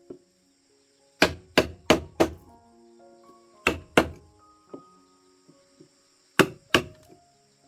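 Chopping with a blade on wood or a board: a run of four sharp strikes, then two, then two more. A steady high insect drone runs underneath.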